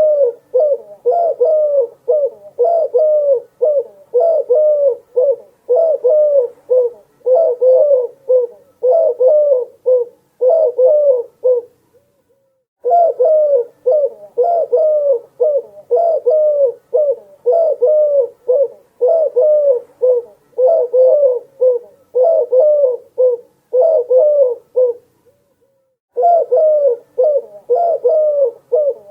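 A dove cooing: runs of short, low coos repeated at about one to two a second, twice falling silent for about a second, around twelve seconds in and again about twenty-five seconds in.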